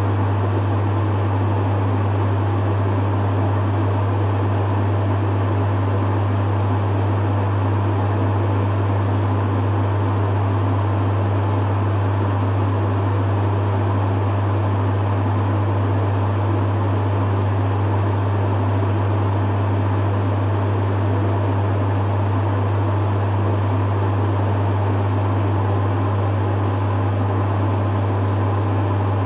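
Dehumidifier running steadily: a strong low hum from its compressor under the even rush of its fan, with no change in pitch or level.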